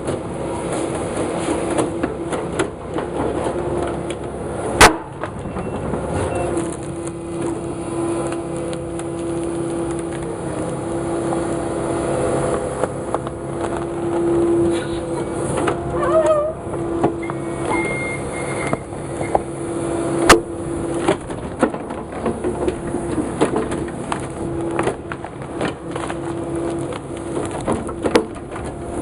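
Forestry machine's engine running steadily, with scattered clanks and two sharp, loud knocks, one about five seconds in and one about twenty seconds in.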